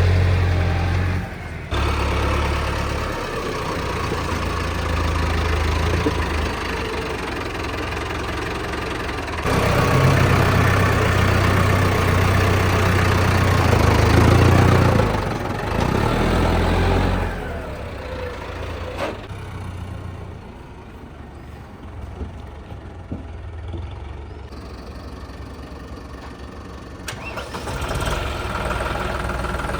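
Diesel tractor engines running and working, with the engine note rising for several seconds around the middle and settling lower before picking up again near the end.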